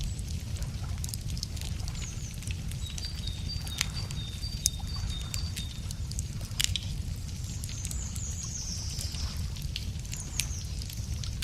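Wood fire crackling with scattered sharp pops over a steady low rumble, while small birds sing in the background: a repeated two-note phrase in the middle and high falling chirps near the end.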